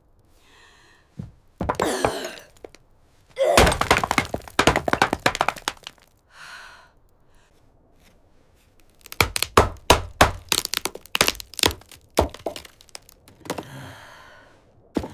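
Heavy thuds and cracking impacts in two rapid runs, each a couple of seconds long, with short rasping, pitched sounds between them.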